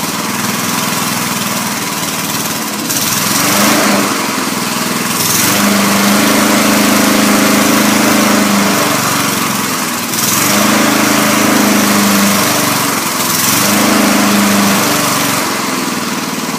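Small single-cylinder lawnmower engine running, speeding up and holding for a few seconds, then dropping back, three times over: an unsteady run on an old mower being brought back to life after carburetor adjustment.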